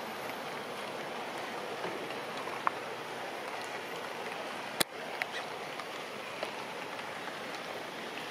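Steady hiss of falling rain. A single sharp click about halfway through, then a few faint ticks.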